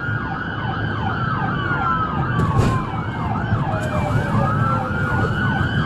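Police cruiser sirens during a pursuit: one siren in a fast yelp, about four sweeps a second, and another in a slow wail that rises and falls. Both sound over a low engine and road rumble.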